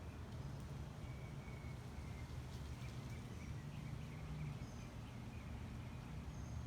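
Faint, scattered chirps of small birds over a steady low background hum.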